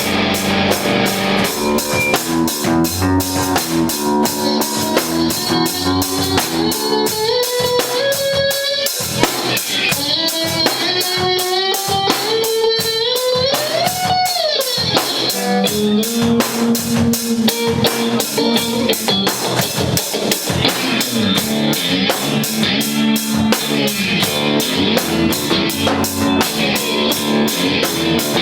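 Live rock band playing: an electric guitar line that slides and bends up and down in pitch over a steady drum kit beat and bass.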